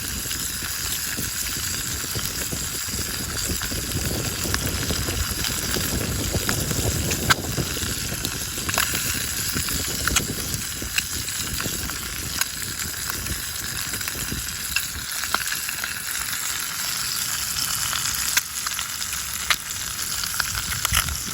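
Food sizzling in a pan over a campfire: a steady frying hiss with scattered pops and crackles.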